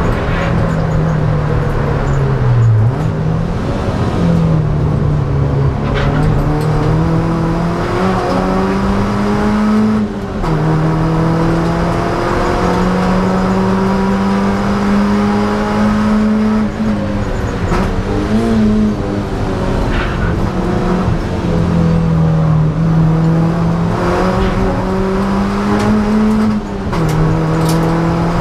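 Ford Laser KQ's four-cylinder engine at full throttle on track, heard from inside the cabin. The engine note climbs steadily and drops sharply about four times as the driver changes gear.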